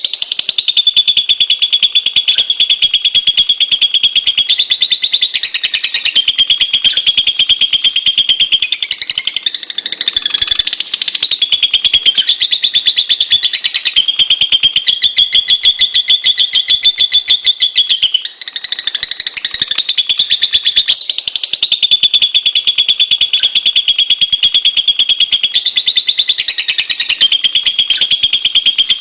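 Lovebird giving a long, loud, high-pitched chattering trill of very rapid notes, almost unbroken, with one brief pause a little past halfway.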